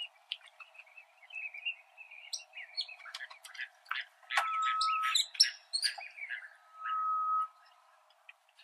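Birdsong from several birds: a busy mix of short chirps and trills, with a steady whistled note held for under a second twice, about halfway through and again later.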